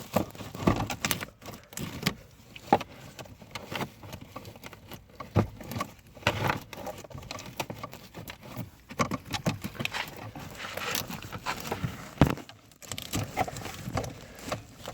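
Irregular clicks, knocks and rustling of plastic parts being handled during a cabin pollen filter change.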